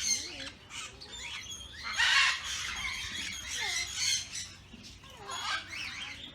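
Birds squawking and chirping in a series of short calls, with one loud harsh squawk about two seconds in.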